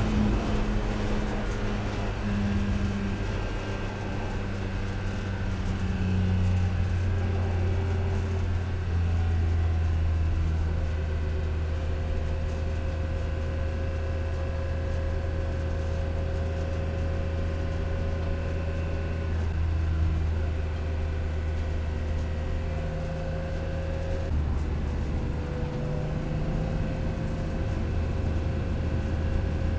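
Cabin sound of a BMW E46 M3's S54 3.2-litre straight-six race engine running in third gear at low revs. Its pitch falls over the first several seconds as the revs drop, then it holds a steady drone at about 3,000 rpm under light throttle.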